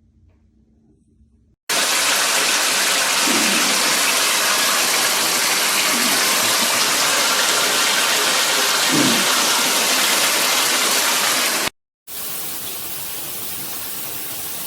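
Handheld filtered shower head spraying water: a loud, steady rushing hiss that starts suddenly about two seconds in, breaks off abruptly near the end and comes back quieter a moment later.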